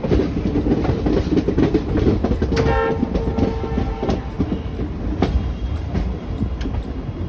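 Passenger train rolling slowly through a station yard, its wheels clacking over rail joints and points. A diesel locomotive horn sounds once, briefly, about two and a half seconds in.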